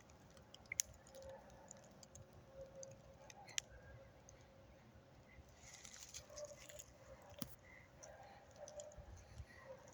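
Near silence, broken by a few sharp clicks and faint, short distant sounds that are too weak to name.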